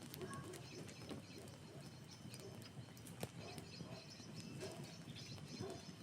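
Wood campfire crackling, with scattered sharp pops, and birds calling in the background.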